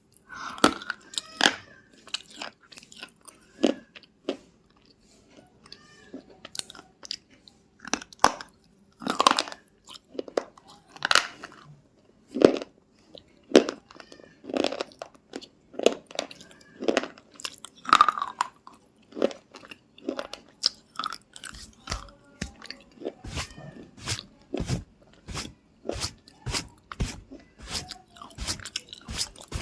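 Crunchy food being bitten and chewed close to the mouth, a string of sharp crunches. The crunches are irregular at first and settle into a steady chewing rhythm of about two to three crunches a second in the last third.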